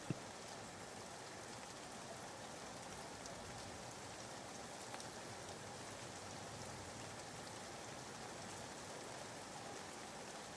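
Soft, steady rain ambience: an even hiss of falling rain used as background white noise. A brief click at the very start.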